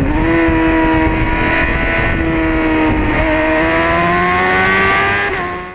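Honda CBR600RR's inline-four engine running at high revs on a racing motorcycle, heard onboard with heavy wind rush. The pitch dips briefly at the start, holds fairly steady, then climbs slowly in the last couple of seconds as the revs rise, before the sound fades out.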